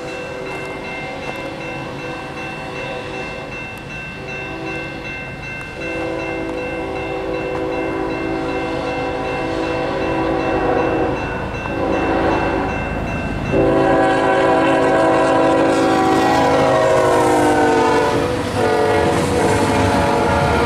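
Canadian National freight locomotive's multi-chime air horn sounding a series of long blasts, with a short one near the middle, as the train approaches; the chord drops in pitch as the locomotive passes. The rumble of the train grows louder underneath.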